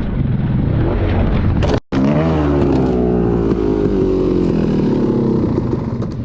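Dirt bike engine running hard under throttle, its pitch climbing steadily for a few seconds, with wind noise over the camera microphone. The sound cuts out for an instant just before two seconds in.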